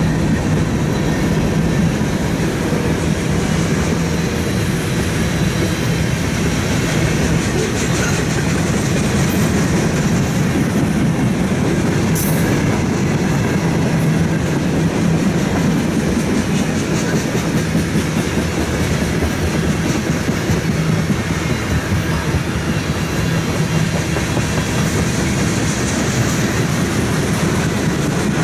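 Freight train cars rolling steadily past, with a continuous rumble of wheels on rail and a fast clickety-clack of wheels over the rail joints.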